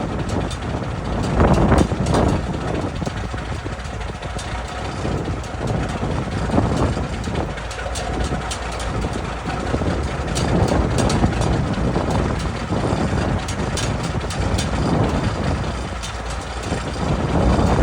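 Straight-piped diesel engine of a Peterbilt 362 cabover truck running after a warm start, its level swelling and easing several times.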